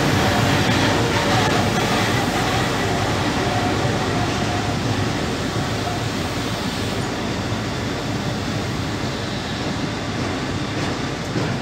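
Empty car-carrier freight wagons rolling past at close range: a steady rumble of wheels on the rails that slowly grows quieter.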